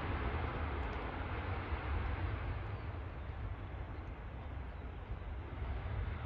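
Jet airliner engine noise fading gradually as the aircraft moves away, a broad rushing sound over a deep rumble.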